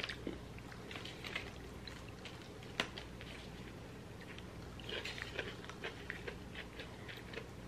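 People chewing mouthfuls of bacon cheeseburger, faint wet chewing with scattered small clicks, a sharper click about three seconds in and a short cluster of crackly sounds about five seconds in.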